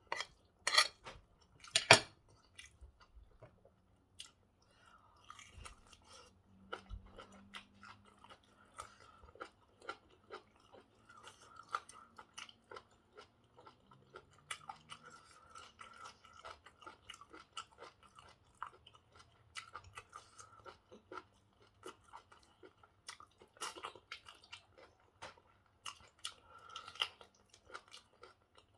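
Close-up mouth sounds of a person chewing pork stew and white rice, with a steady run of small wet clicks and smacks. Two sharper, louder clicks come in the first two seconds.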